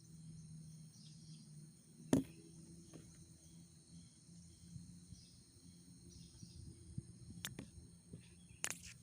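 Forest insects, likely crickets, keeping up a steady high-pitched chirring, with one sharp knock about two seconds in and a few fainter clicks near the end.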